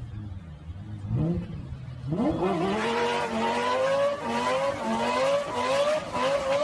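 Car engine running low with a couple of brief blips of throttle, then about two seconds in it accelerates hard. Its pitch climbs in a series of rising steps that each drop back slightly and climb again.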